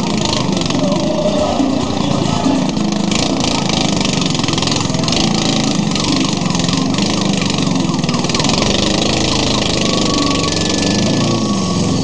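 Engine of a vintage-style parade car running steadily as the car drives along on its rear wheels with its front wheels lifted.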